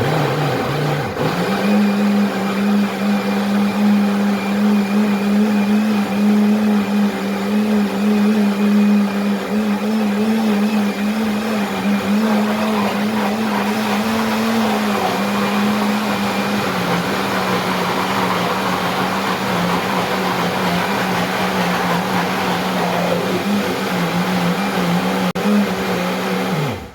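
Kitchen blender running steadily, blending corn kernels, eggs, sugar, margarine and coconut milk into corn cake batter. The motor picks up speed about a second in and winds down as it is switched off at the end.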